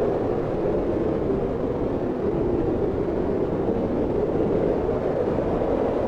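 Wind blowing steadily, a smooth rushing noise with a low, hollow tone and no gusts or breaks.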